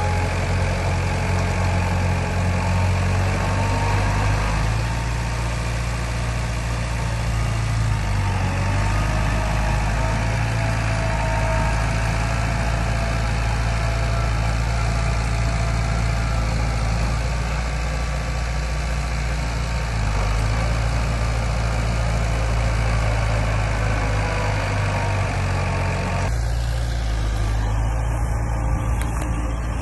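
Diesel engine of heavy earthmoving machinery running steadily at a low pitch, its note shifting a few times.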